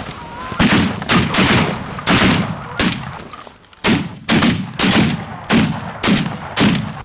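A volley of shotgun blasts from several hunters firing together at geese: about fifteen shots, overlapping and irregular, in two bursts with a short lull about three seconds in. A goose call is heard faintly at the very start.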